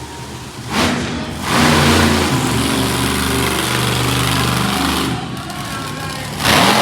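Monster truck engine revving in loud surges over a steady running drone: a short burst about a second in, a long sustained one through the middle, and another near the end.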